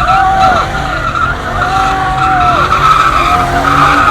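Car tyres squealing continuously as a car slides and drifts on the street, with the engine's pitch rising and falling over and over as it is revved.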